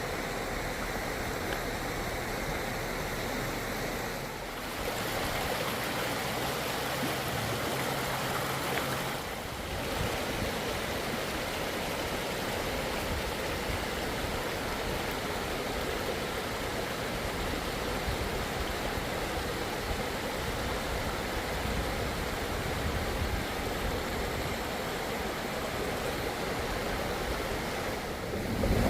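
Steady rush of running floodwater in a mountain wadi after heavy rain. It dips briefly about four and nine seconds in.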